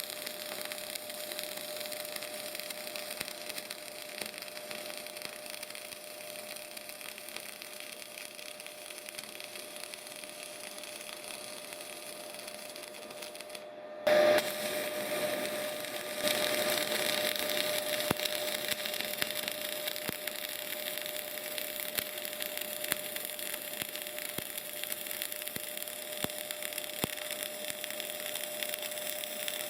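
Semi-automatic CO2/MAG welding arc crackling and sizzling steadily with many sharp spatter pops. It cuts out briefly about halfway through and comes back louder, with a sharp burst as it strikes.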